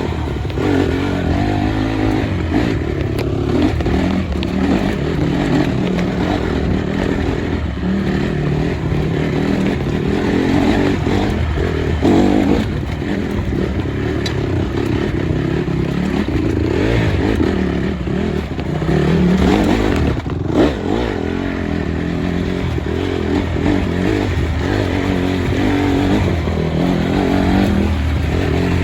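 Motorcycle engine running, its pitch rising and falling again and again as it speeds up and eases off, over a steady noisy rush. A brief knock about two-thirds of the way through.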